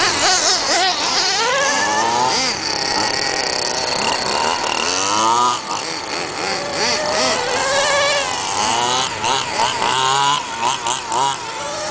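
Small two-stroke petrol engines of 1:5-scale FG radio-controlled trucks revving up and down, their pitch rising and falling again and again. Several engines overlap at times.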